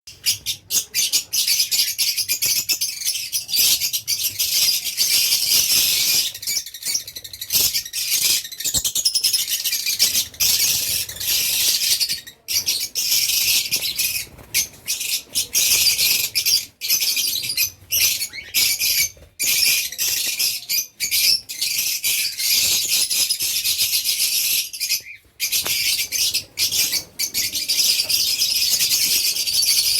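A flock of lovebirds in a colony cage, chattering and chirping continuously in a dense, high-pitched din.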